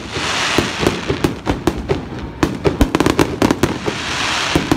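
Aerial fireworks display: shells bursting overhead in a rapid run of sharp bangs and pops. A dense hiss from the glittering stars fills the first second and comes again near the end.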